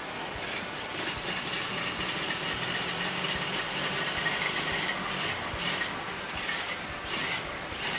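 A 1930 Ford Model A's four-cylinder flathead engine running just after being started, its rough note surging several times in the second half.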